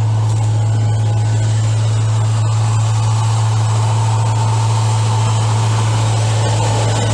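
The 1978 Chevy one-ton's 350 small-block V8 idling steadily, a constant low hum with no change in speed.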